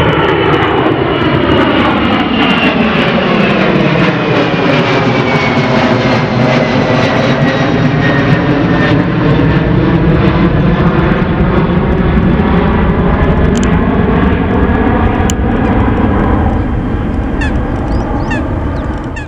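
Twin jet engines of a Boeing 767-300 freighter at takeoff power as it passes and climbs away, with a loud, steady jet noise and a whine falling in pitch as it goes by. The noise eases a little near the end, then cuts off abruptly.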